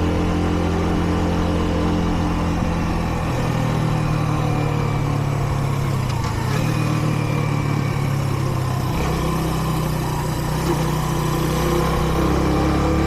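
Kreidler Dice CR 125's single-cylinder four-stroke engine running steadily under way, its pitch stepping up and down a few times as the revs change, over wind and road noise. The bike is new and being run in, so it is held to moderate revs.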